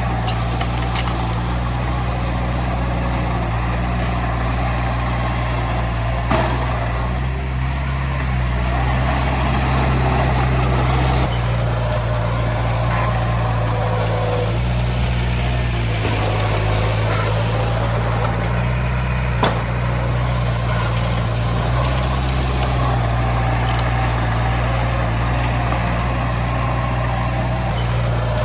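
Heavy diesel engine of earthmoving equipment running steadily at a low, even pitch that shifts slightly now and then, with two sharp knocks.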